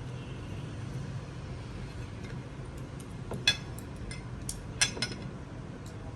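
A few sharp clinks and taps of kitchen utensils and dishes over a low steady hum: one about three and a half seconds in, and two close together near the five-second mark.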